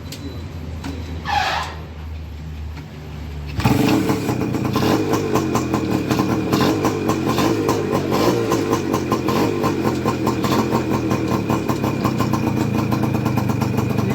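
Suzuki Max two-stroke petrol engine running on a petrol and electrolysis-hydrogen mix. It goes from a low hum to loud, fast, steady running about three and a half seconds in.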